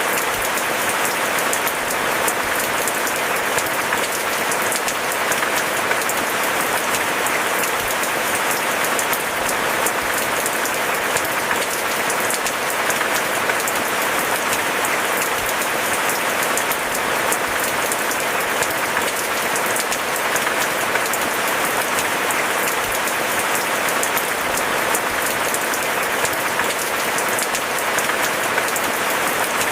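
Steady rain: a dense, even hiss of falling drops with fine pattering throughout, without thunder.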